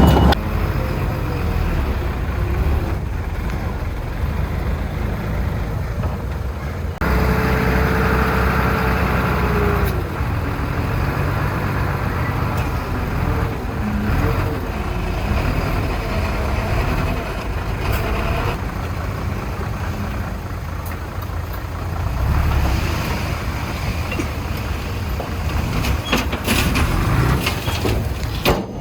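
Heavy diesel machinery running steadily with a low rumble; the sound shifts abruptly about a quarter of the way through and cuts off at the end.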